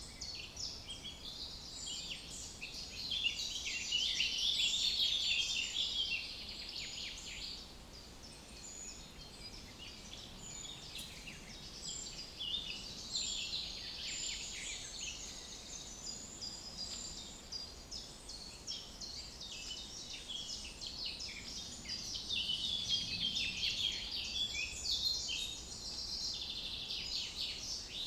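Songbirds chirping and singing, a dense chorus of short, high notes that grows busier for a few seconds near the start and again near the end.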